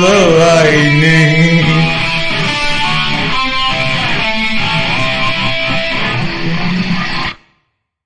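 Instrumental ending of a rock song, led by electric guitar with bending notes. It cuts off suddenly near the end.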